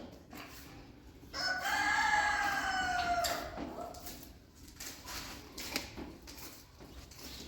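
A rooster crowing once, a single drawn-out call of about two seconds whose pitch slowly falls toward the end.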